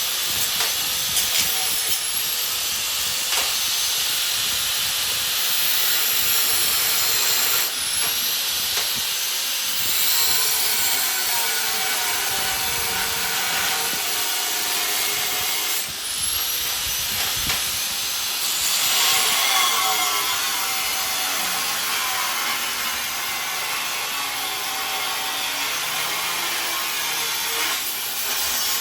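Angle grinder cutting and grinding steel for a smoker's rack supports, a steady harsh hiss whose whine rises and falls as the disc is pressed into and eased off the metal.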